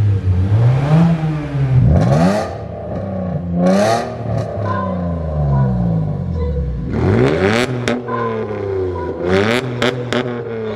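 Car engine being revved in repeated blips, its pitch rising and falling several times, with a few short sharp cracks from the exhaust between the revs.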